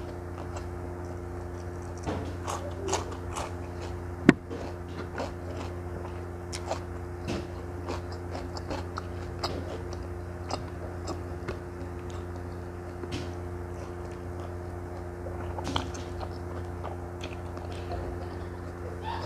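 Crunching bites of raw cucumber and wet chewing, close to a clip-on microphone, with many small mouth clicks. A steady low electrical hum runs underneath, and a single sharp click stands out about four seconds in.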